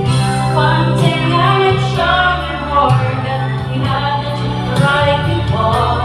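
A song with a singing voice over an accompaniment of held low notes; the melody glides and bends.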